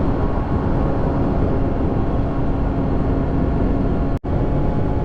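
Triumph Daytona 675's three-cylinder engine running at a steady speed while riding, one steady tone under a dense rush of noise. The sound drops out completely for an instant a little past four seconds in.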